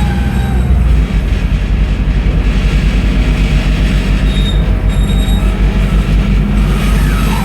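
Scania N310UA articulated bus running, its engine and ZF Ecomat automatic gearbox giving a loud low rumble with a fast pulsing beat and a faint whine.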